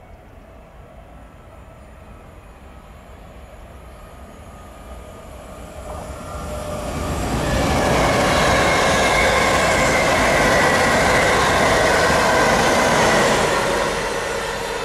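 A train passing on a main line: it builds up over several seconds, runs loud for about six seconds with a rush of wheels and rail carrying some steady high tones, then starts to fade near the end.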